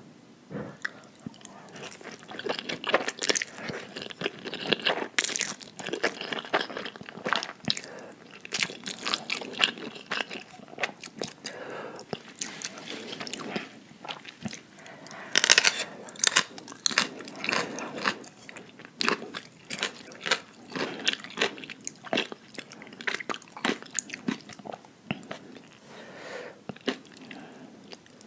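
Close-miked eating: chewing and biting into spicy instant noodles and crunchy yellow pickled radish, with many short wet clicks and crunches in quick succession and a louder cluster about halfway through.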